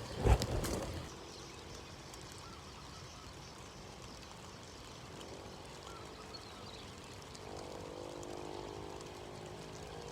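A short clatter of knocks at the start, then faint steady outdoor background. A faint droning hum of several tones comes in for the last couple of seconds.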